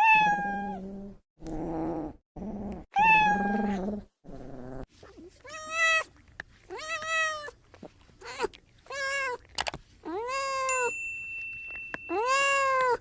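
Domestic cat meowing repeatedly, about eight meows, the later ones drawn out and rising then falling in pitch.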